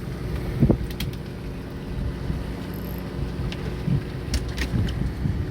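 Steady low hum of a fishing boat's machinery running, with a few light clicks and knocks on deck.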